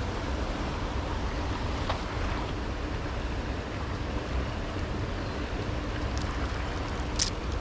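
Steady rush of river water with wind buffeting the microphone, and a few short clicks near the end.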